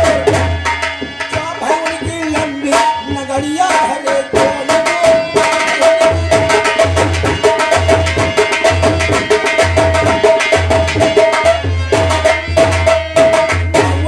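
Live folk music with fast tabla-style hand-drum strokes and a deep drum beat under a long held melody note.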